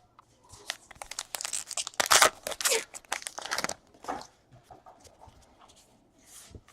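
Wrapper of a trading-card pack being torn open and crinkled: a rapid run of tearing and crackling lasting about three seconds, loudest in the middle. Then a few light clicks and rustles of cards being handled.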